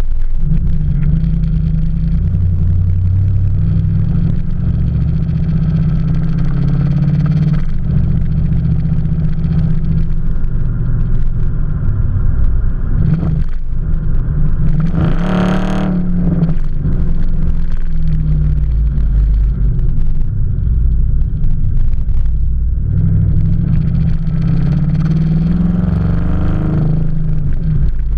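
Dodge Charger SRT's V8 running through a Zoomers exhaust, rumbling while driving. It revs up hard about halfway through and climbs in revs again near the end.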